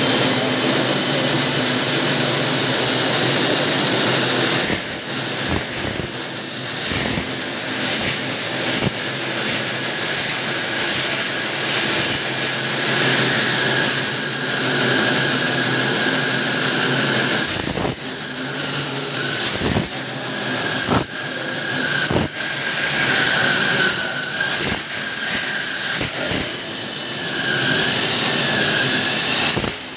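A power tool running steadily with a high whine. From about four seconds in it is broken by frequent short knocks and dips in level.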